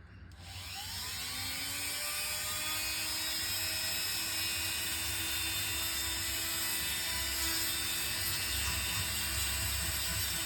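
A small electric motor spinning up, its whine rising in pitch over the first couple of seconds, then running steadily at speed with a high, even whine.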